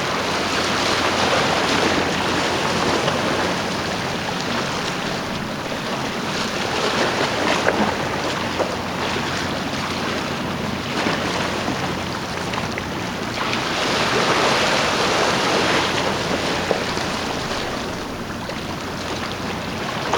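Steady rush of seawater and wind, swelling and easing every six or seven seconds, with a faint low hum underneath.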